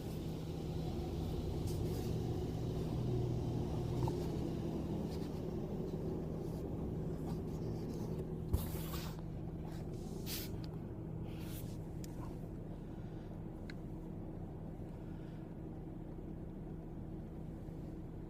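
Car wash machinery running: a steady low rumble and hum, with a thump and several short hissing bursts about halfway through.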